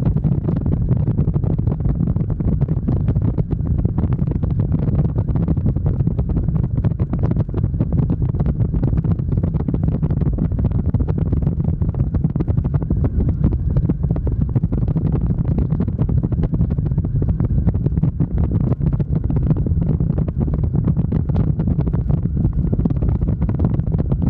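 Motorcycle underway: a steady low rumble of engine and wind buffeting on the microphone, unchanging throughout.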